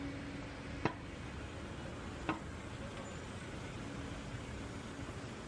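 Steady background hum and noise, with two short sharp knocks, one about a second in and one about a second and a half later.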